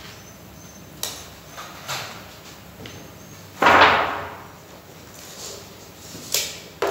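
A series of sharp knocks and bangs, about five in all. The loudest comes about three and a half seconds in and rings on briefly.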